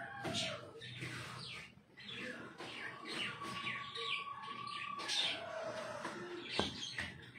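Birds chirping over and over in short, falling chirps, with a sharp click about six and a half seconds in.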